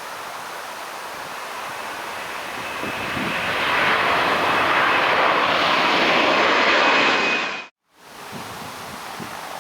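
An airliner's engines passing close: a steady noise swelling over a couple of seconds into a loud rush with a thin high whine on top, then cutting off suddenly. Wind noise on the microphone before and after.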